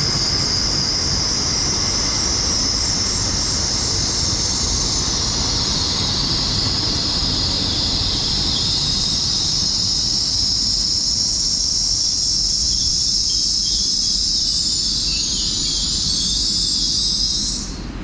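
LNER Class 801 Azuma electric train pulling into the platform, with a steady, loud, high-pitched squeal over a low rumble as it slows. The sound cuts off near the end.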